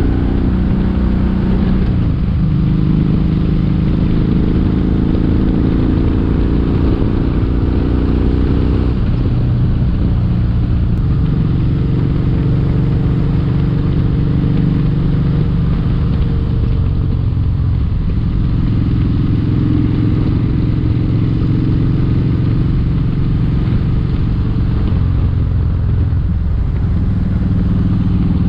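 Kawasaki Vulcan 1700 Vaquero's V-twin engine running under way, heard from the rider's helmet mic. Its pitch shifts several times, as with gear changes or throttle changes.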